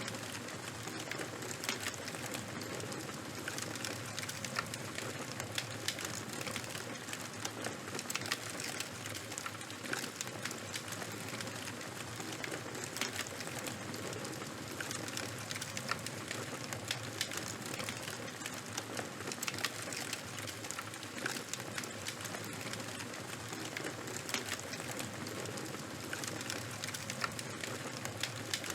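Fire burning and crackling, a steady hiss with frequent small sharp pops scattered irregularly throughout.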